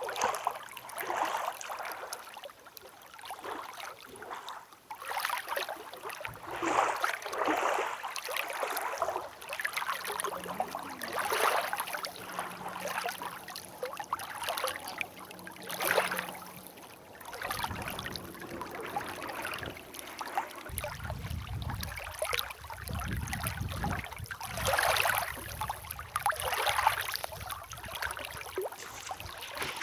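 Water washing and splashing in repeated swells, like small waves against a shore, with a low wind rumble on the microphone coming in about two-thirds of the way through.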